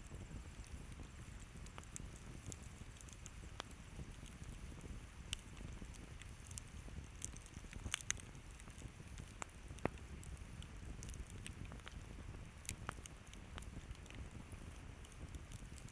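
Campfire crackling: scattered sharp pops at irregular intervals, the loudest about eight and ten seconds in, over a low steady rumble.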